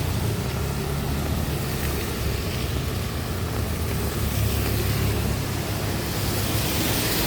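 Steady rain hiss with the low hum of a motor vehicle's engine running underneath.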